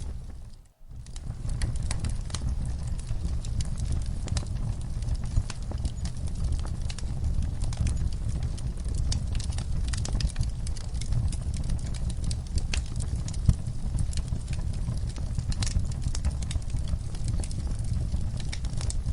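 Wood fire crackling in a fireplace: irregular sharp pops and snaps over a steady low rumble of the flames. The sound fades out to silence for a moment just under a second in, then comes straight back.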